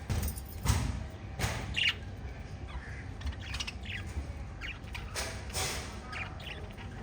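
Small pet parrots chirping and squawking in short, scattered calls, mixed with a few short noisy bursts, the loudest about a second in.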